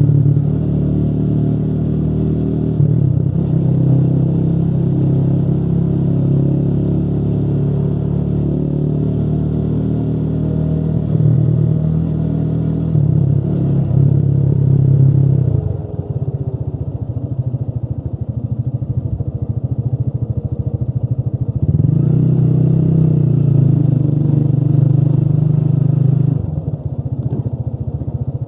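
Motorcycle engine running while riding, steady under throttle, then easing off about halfway through, pulling again a few seconds later and easing off once more near the end.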